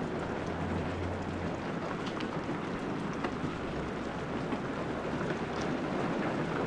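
Heavy rain falling steadily, an even hiss with scattered drips and taps.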